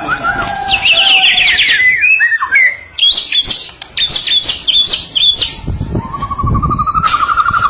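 White-rumped shama (Medan murai batu) in full, loud song: quick varied phrases of fast trills and sharp whistled notes, then a buzzy rising trill in the last couple of seconds.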